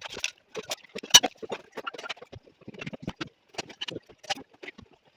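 Irregular knocking and clicking of hard objects, with one sharp knock about a second in.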